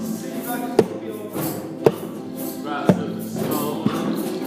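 Group music with strummed chords and a sharp percussive hit about once a second keeping the beat, and brief faint singing.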